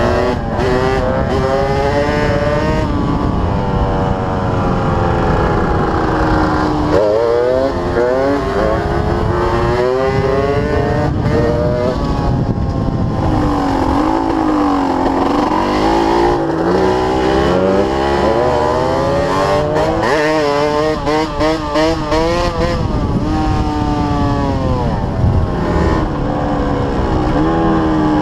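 Yamaha DT125's single-cylinder two-stroke engine running, its pitch repeatedly rising and then dropping back as it is revved up and eased off.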